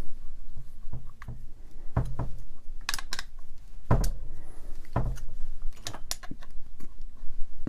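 Clicks and knocks from parts being handled and fitted onto a rotary hammer drill, with sharper knocks about once a second through the middle.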